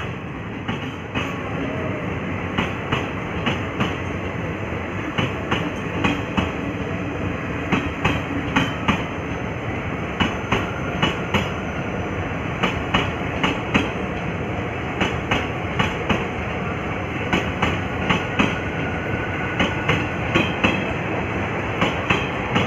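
Passenger train coaches rolling past close by, with a steady rumble and the wheels clicking over rail joints in quick groups, about once a second.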